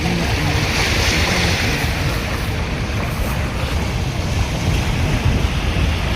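Wind buffeting the microphone, a loud, unsteady rumbling rush, over the wash of open water.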